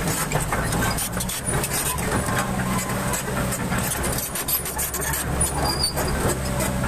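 Excavator's diesel engine running with a steady low drone, dipping briefly about a second and a half in and again about four seconds in.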